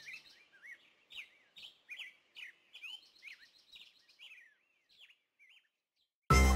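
Faint bird chirping: short, sweeping notes repeated about twice a second, fading away. Music cuts in suddenly near the end.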